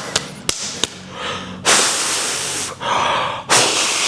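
A lifter's loud, hissing exhalations as he strains through reps, two long forceful breaths with a shorter one between. A few sharp clicks come just before them.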